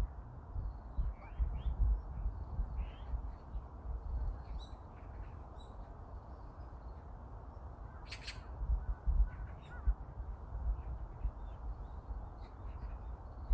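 Birds calling outdoors in short, scattered calls over a steady outdoor hiss, with one sharper call about eight seconds in. Soft, irregular low thumps of footsteps on a path run underneath.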